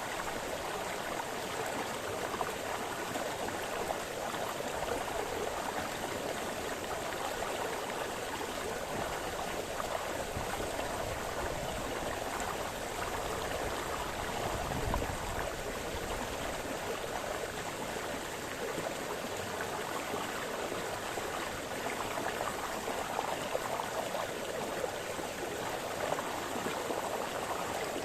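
Brook splashing steadily, an unbroken rush of moving water with a brief deeper splash about halfway through.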